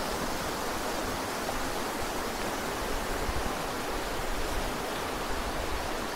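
Water rushing steadily down a waterfall, an even unbroken noise.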